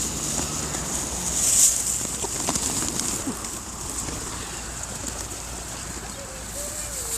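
A flock of feral pigeons crowding in to be fed: wingbeats with a loud flurry about one and a half seconds in, and a short coo near the end.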